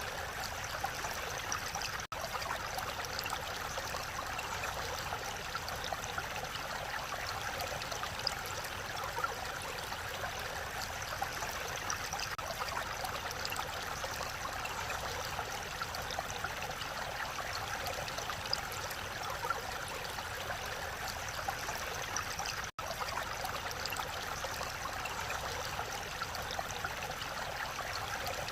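Mountain valley stream: water rushing steadily over rocks, an even splashing rush. Twice the sound drops out for a split second, about two seconds in and near the end.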